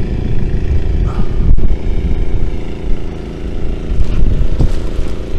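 A steady engine drone holding one pitch, over an uneven low rumble.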